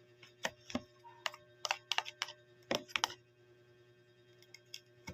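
Sharp, irregular clicks and taps of a spoon against a bowl, about a dozen in the first three seconds, then a pause and a few fainter ones near the end. They go with crushing chili into the soup.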